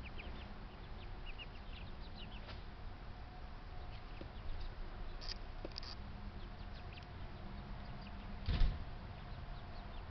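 Backyard birds chirping in short, scattered high calls over a faint steady hum. There is one loud knock or thump about two-thirds of the way in.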